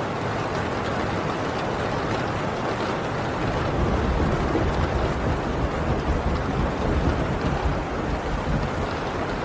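Heavy rain drumming steadily on a tin roof, a dense even hiss of drops. A low rumble of distant thunder swells in about a third of the way through and fades again near the end.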